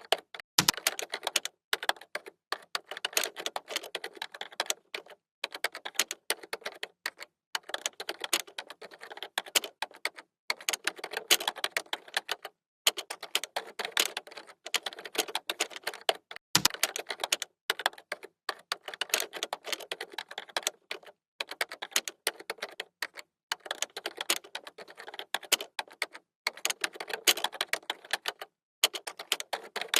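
Typing on a computer keyboard: rapid runs of key clicks in bursts of a second or two, broken by brief pauses.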